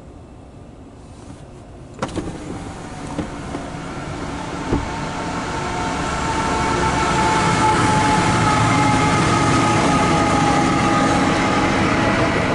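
CSX empty autorack freight train approaching and passing: a rumble of wheels and engines that starts with a sharp onset about two seconds in and builds to a steady loud run as the cars roll by, with a few steady tones riding on top.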